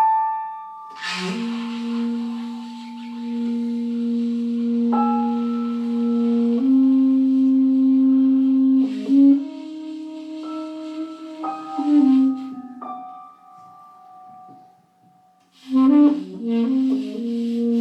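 Music: a woodwind instrument playing a slow melody of long held notes, with a quieter pause before the melody resumes near the end.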